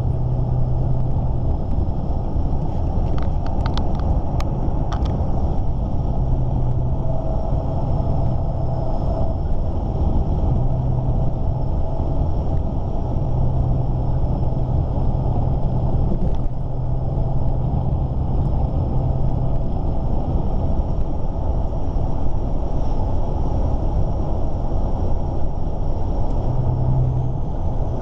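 Heavy truck engine running steadily on the road, heard from inside the cab, with a deep drone and road rumble. A few light clicks come about three to five seconds in.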